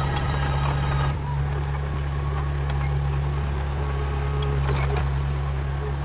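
Heavy diesel engine running steadily with a deep drone, and a brief rattle of clicks about three-quarters of the way through.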